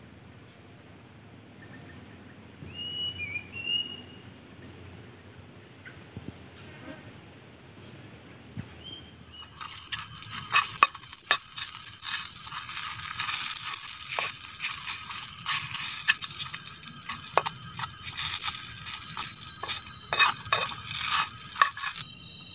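Food sizzling and spattering in a hot pan, a dense crackle full of small pops that starts suddenly about ten seconds in. Before it there is a steady high drone of insects and a brief bird chirp.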